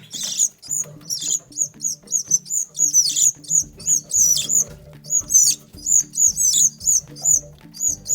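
Canary chicks calling, a fast string of short, high, downward-sweeping chirps about four a second, over background music.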